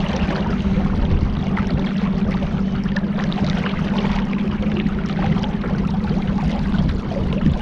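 A boat's motor running at a steady pitch, with wind rumbling on the microphone.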